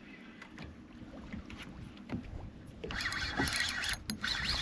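Boat on the water: scattered small knocks and thumps, then about three seconds in a loud rush of water noise sets in, with a brief break just before the end.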